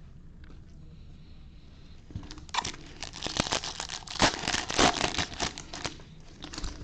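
Foil wrapper of a baseball card pack crinkling and tearing as it is ripped open by hand, a dense run of crackles starting about two seconds in and easing off near the end.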